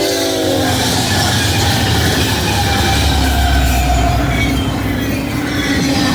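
Diesel-powered BNSF intermodal freight train, led by five diesel locomotives, passing at speed. The locomotive horn's chord drops in pitch and cuts off about half a second in. Then comes the heavy diesel rumble and the rush of wheels on rail, with thin squealing tones from the wheels.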